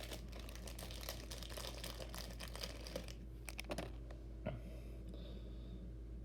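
Small diecast toy motorcycles being handled and set down, a quick run of light clicking and rattling for about three seconds, then a few sharper separate clicks.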